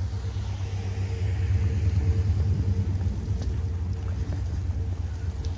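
Wind buffeting the microphone as a deep, steady rumble, with a vehicle passing on a snowy street; the passing hiss swells to its loudest about two seconds in, then fades.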